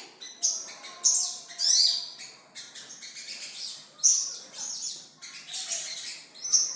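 A sogon bird singing its 'trotol' song: a run of short, quick high chirping phrases with brief gaps between them.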